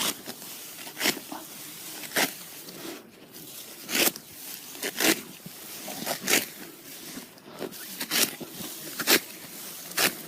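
Serrated sickle cutting rice stalks by hand: a string of short, crisp rasping cuts, about one a second.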